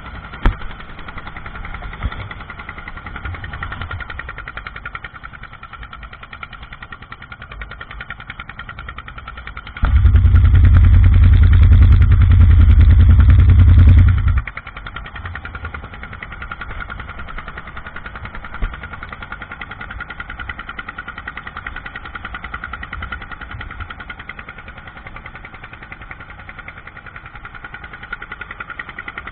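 Fishing boat's engine running steadily. Midway a much louder low rumble lasts about four seconds, then stops.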